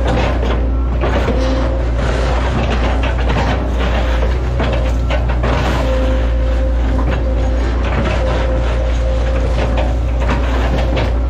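Hitachi ZAXIS 110 excavator running under working load, its engine giving a steady low drone and its hydraulics a whine that comes and goes, with repeated knocks and cracks throughout.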